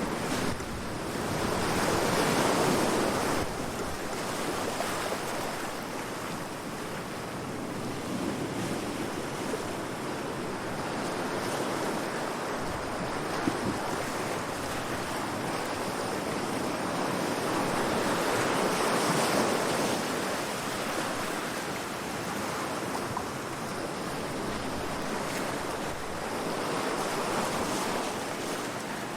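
Calm sea waves washing onto the shore, a steady wash that swells and fades slowly, rising a few times as waves break.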